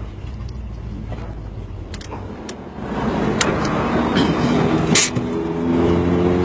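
Big-block Chevy 454 V8 in a Toyota pickup, rumbling low while idling. About three seconds in the sound grows louder and a pitched engine note comes in, with a few sharp clicks.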